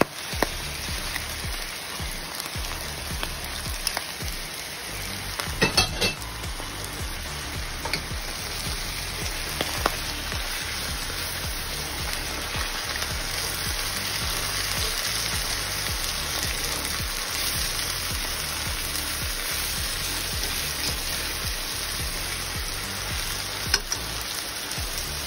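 Salmon, tomatoes and red onion frying in a stainless steel pan, a steady sizzle throughout, with a few sharp knocks against the pan, a cluster of them about six seconds in.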